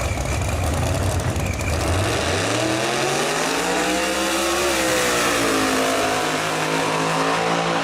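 Drag race car's engine at full throttle down the strip: a low rumble, then the engine pitch rises for about two seconds, dips slightly and holds steady, then cuts off suddenly near the end.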